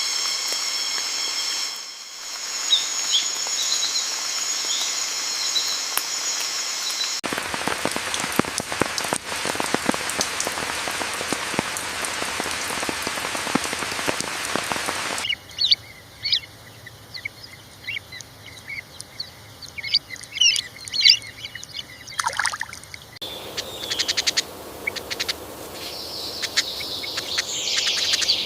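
Forest ambience in cut-together sections: a steady high-pitched buzz with a few faint chirps, then several seconds of even hiss like rain, then scattered bird chirps that grow denser near the end.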